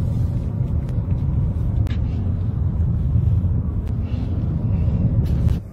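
Steady low rumble of a car driving, with a few faint clicks; it cuts off abruptly near the end.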